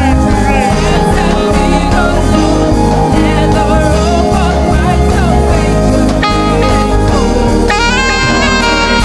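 Live gospel band playing in rehearsal: saxophone lines over keyboard, guitar and drums, with a strong bass underneath.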